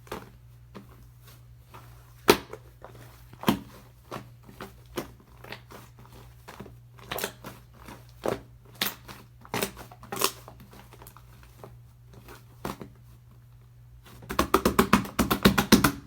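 Shaving-foam slime being squished and pressed by hand, with scattered crackling pops. Near the end it turns into a fast run of pops.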